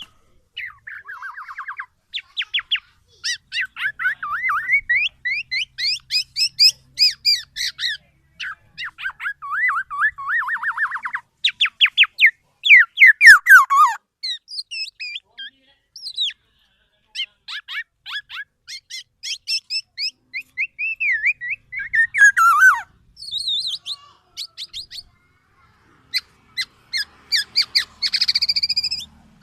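Black-naped oriole (kepodang emas) singing: long, fast runs of varied chattering and sweeping whistled notes, broken by short pauses every several seconds.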